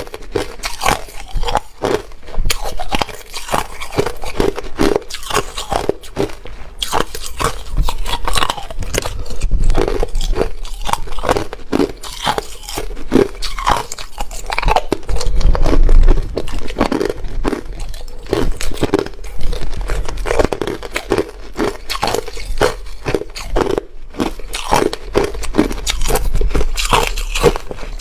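Hard ice being bitten and chewed close to the microphone: loud, irregular crunching and cracking with no let-up.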